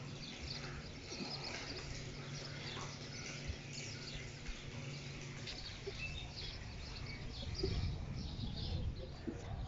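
Small birds chirping repeatedly in the background over a steady low hum, with a low rumble of the phone being handled and moved near the end.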